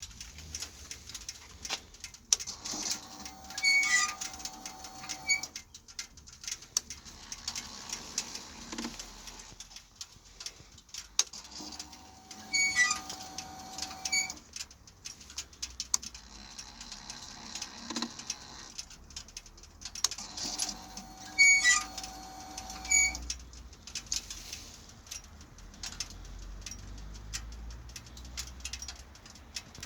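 A Suzuki VZ1800R making a strange sound when it is powered on: a steady tone of two to three seconds with chirping notes above it, which comes three times, about nine seconds apart.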